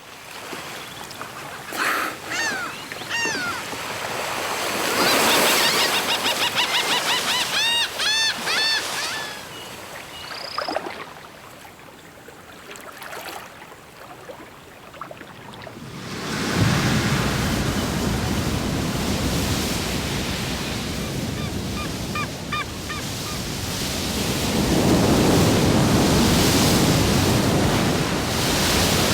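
Waves washing in, getting louder and fuller about halfway through, with clusters of high, quickly repeated rising-and-falling calls in the first third.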